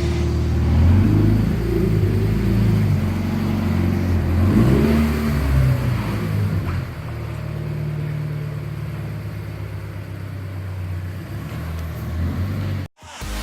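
Subaru BRZ's flat-four engine through a new WORKS ABM aftermarket exhaust, revving with its pitch rising and falling for several seconds. It then settles into a steadier, lower drone and cuts off abruptly near the end.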